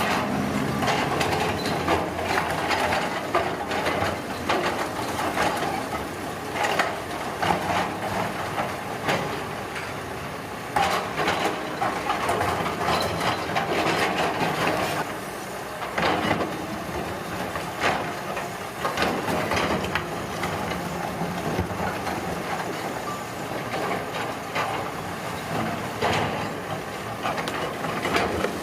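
Heavy road-construction machinery working, a steady engine noise broken by many irregular knocks and scrapes of material being moved.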